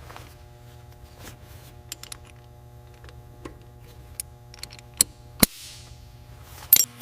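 Steady low hum with scattered light clicks and taps, a sharp knock about five seconds in and a second one just after, followed by a brief hiss.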